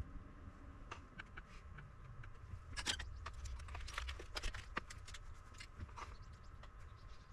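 Irregular light clicks and taps, like small tools and parts being handled during work on an electronic unit, busiest in the middle, over a low steady hum.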